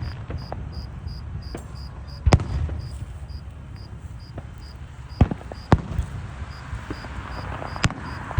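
Distant fireworks going off in scattered sharp bangs: four reports, the loudest about two seconds in, over a low rumble. A cricket chirps steadily, about four chirps a second.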